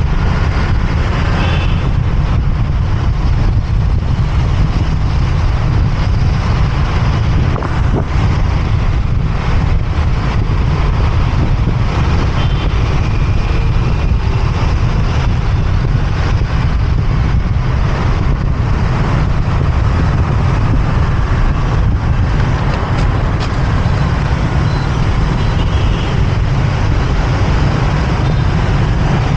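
Steady road noise from a motorbike ride through city traffic: a continuous low rumble of the bike and the traffic around it.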